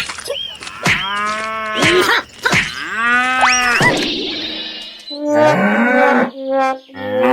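Cattle mooing: a run of short calls that glide up and down in pitch, some overlapping.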